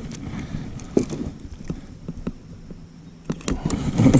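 Scattered light clicks and knocks from a kayak while a hooked smallmouth bass is reeled in toward the boat, busier near the end.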